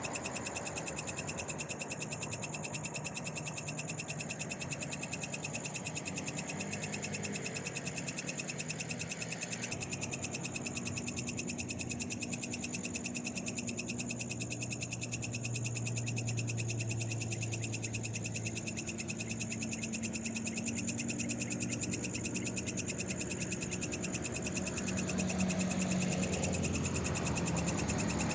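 Night chorus of frogs calling by a roadside: a steady, fast-pulsing trill that runs without a break. Under it, a low hum swells about halfway through and again near the end, like a distant vehicle passing.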